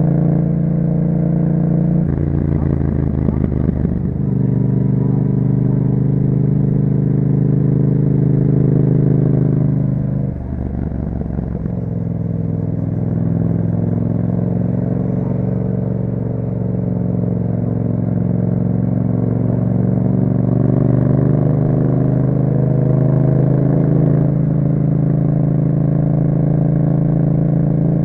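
Yamaha MT-07's 689 cc parallel-twin engine running through an Akrapovic exhaust with a dB killer, under way at a fairly steady throttle. The engine note changes about two seconds in, then briefly drops in pitch and level about ten seconds in before picking back up.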